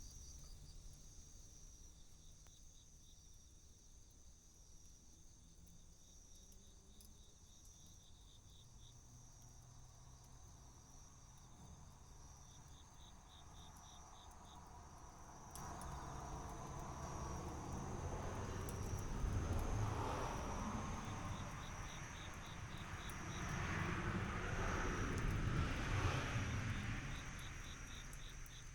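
Insects calling, crickets among them: a steady high trill with short runs of quick pulsed chirps every few seconds. About halfway through, a broad rushing noise comes in abruptly and swells up and down twice.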